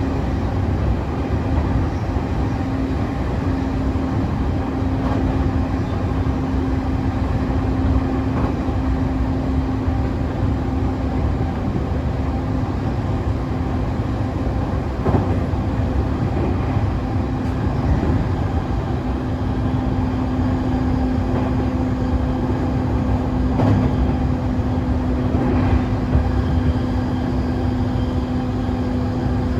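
JR East E531 series electric train running at steady speed, its Hitachi IGBT inverter and traction motors giving a steady tone over the rumble of the wheels on the track. A few brief knocks come from the rails along the way.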